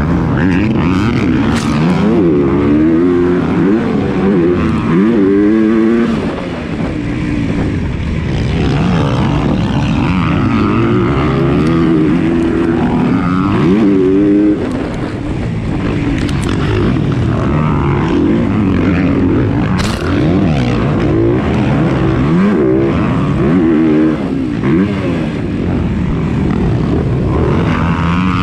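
Motocross bike engine revving hard, its pitch climbing and dropping over and over as the throttle opens and closes and the gears change, with wind and track noise.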